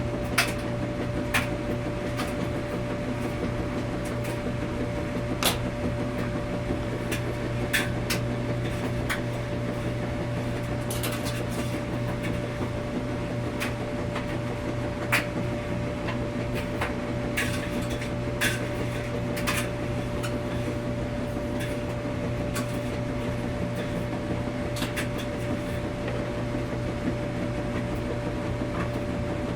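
Washing machine running with a steady hum and a clear steady tone, with scattered sharp clicks and knocks at irregular moments.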